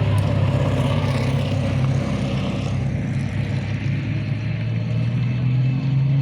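Rally car engine running steadily, its pitch climbing gradually near the end as it revs up.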